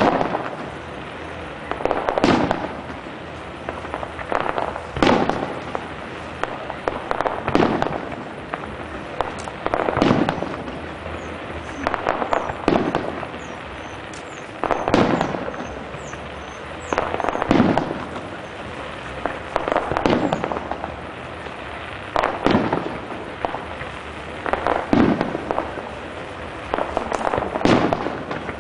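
Fireworks display: shells bursting in the sky one after another, a loud bang about every two to three seconds, each trailing off in a rumble.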